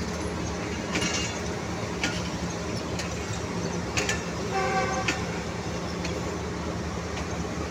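Passenger train coaches rolling slowly past on the track: a steady low rumble with a sharp knock about once a second as the wheels cross rail joints. A short pitched sound rises above it about halfway through.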